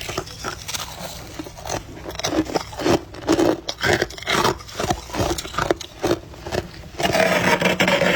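Freezer frost being bitten, crunched and scraped close to the microphone, in irregular crisp crunches, with a longer, denser crunching stretch near the end.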